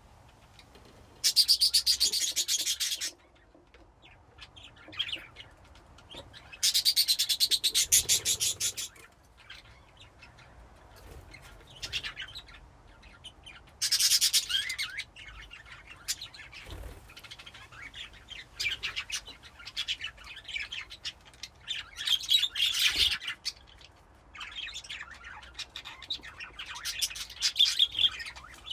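Several budgerigars in a colony cage chirping and chattering. Three loud bursts of fast, rapidly repeated chirps come in the first half, with scattered chirps between them and busier chatter near the end.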